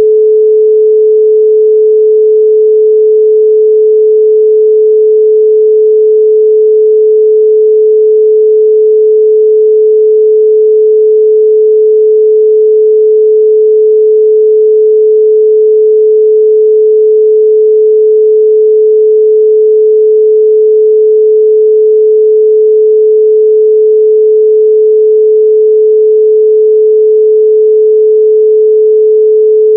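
A steady, loud 432 Hz pure sine tone, one unbroken pitch with no other sound.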